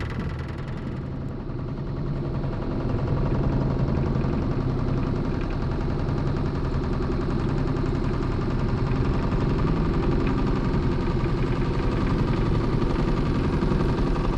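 A small boat's motor running steadily under way, picking up a little in loudness about two seconds in.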